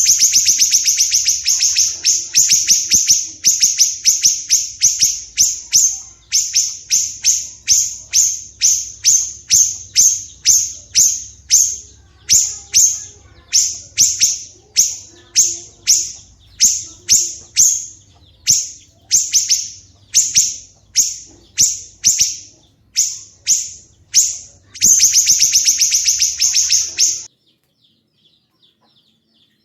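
A songbird repeating loud, harsh, rasping call notes about twice a second, ending in a fast dense run before stopping abruptly near the end.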